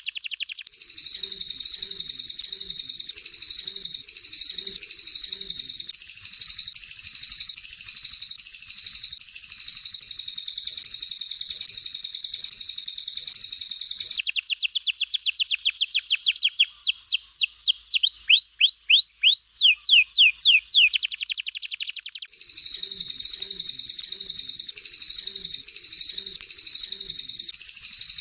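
Recorded songbird song from a canary and cililin bird-training track. A long, harsh, buzzing high trill is broken about halfway through by a fast run of sharp downward-sweeping notes lasting several seconds, and then the harsh trill resumes.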